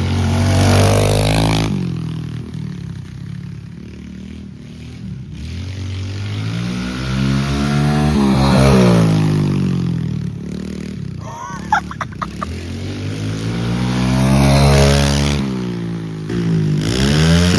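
Small pit bike's single-cylinder engine revving, its pitch and loudness swelling and falling away three times, loudest about a second in, near the middle and about fifteen seconds in.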